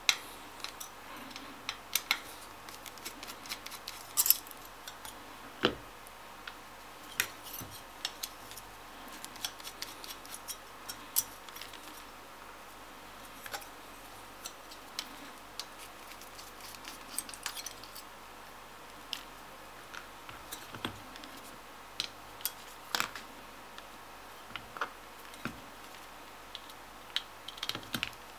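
Irregular small metallic clicks and taps of hand tools working on a graphics card's metal heatsink as its screw standoffs are removed.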